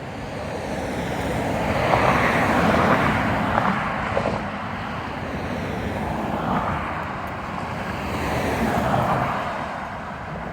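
Road traffic: cars passing by with tyre and engine noise, two of them swelling louder and fading about two seconds in and again near the end.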